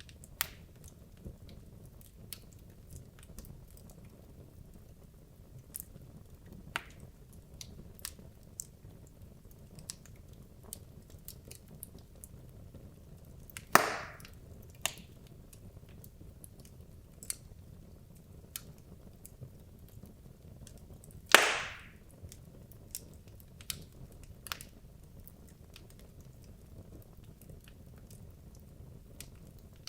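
Wood logs burning in a fireplace: a low steady rumble of flame with scattered small crackles and pops, and two loud sharp cracks, about fourteen and twenty-one seconds in.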